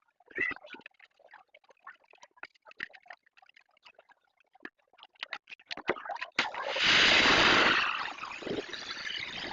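Scattered small clicks and rubbing noises from washing a motorcycle, then about six seconds in a jet of water suddenly sprays onto the bike, loudest for about a second and a half and then running on more softly.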